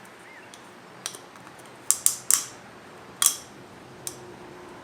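A handful of sharp clicks and taps, a quick cluster of three about two seconds in and another a second later, from hands and a pick or screwdriver working the plastic cartridge oil filter and its O-ring.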